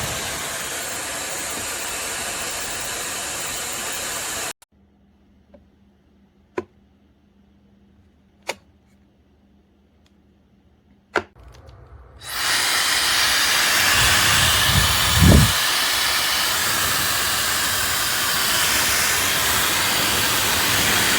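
High-speed brushless hair dryer blowing with a steady loud hiss. It shuts off abruptly about four seconds in. A few sharp clicks follow in the quiet, then it starts up again and runs on, with a brief low rumble of air a couple of seconds after restarting.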